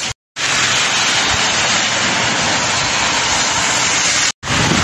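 Heavy downpour hissing steadily, cut off to silence twice for a split second, near the start and near the end.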